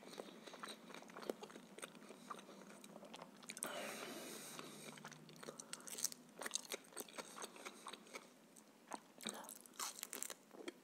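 Close-miked chewing of grilled meat and vegetables, with crisp crunching clicks. About six seconds in, a sprig of fresh dill is bitten and chewed, and the clicks come thicker.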